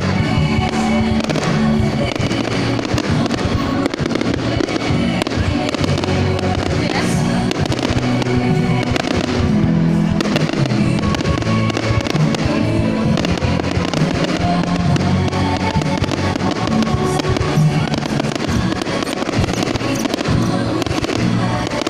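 A fireworks display: many bangs and crackles in quick succession, with loud music playing under them.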